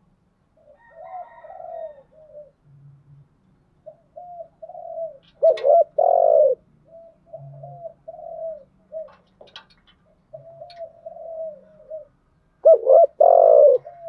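Spotted dove cooing: a run of soft, short coos, broken by two much louder, longer coos, one about five and a half seconds in and one near the end.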